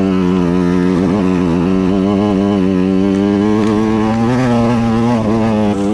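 KTM EXC 125 two-stroke single-cylinder enduro motorcycle engine running hard at high revs, the pitch held nearly steady with slight wavers as the throttle is worked.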